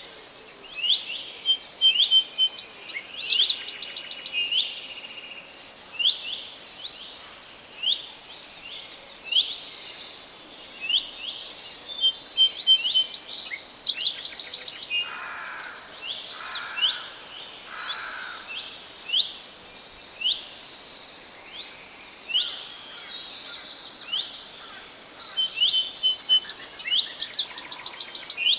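Several songbirds singing at once: a dense overlap of quick high chirps and trills. Three lower, fuller notes from another bird come about halfway through.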